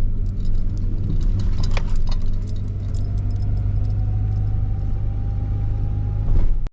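Car driving: a steady low engine and road rumble with frequent small rattles and clicks, and a faint whine that rises slowly in pitch; it all cuts off suddenly near the end.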